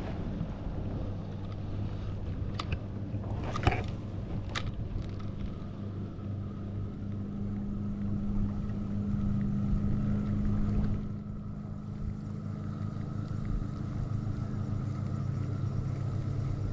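Boat motor running at a steady pitch. It grows a little louder in the middle and eases off about eleven seconds in. There are a few sharp knocks about three to five seconds in.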